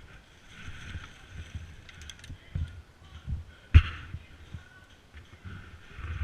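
Irregular low thuds and rustling of a body-worn camera as the wearer moves, with one sharp crack about four seconds in.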